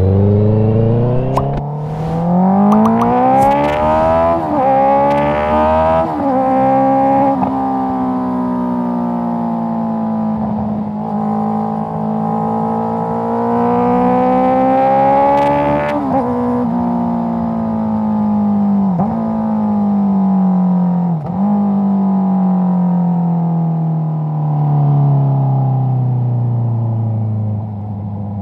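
Honda CBR650R inline-four through an Akrapovic exhaust, heard close to the exhaust. It revs hard through the gears with short breaks at each upshift, holds a steady cruise, climbs again, then falls away with several downshifts near the end.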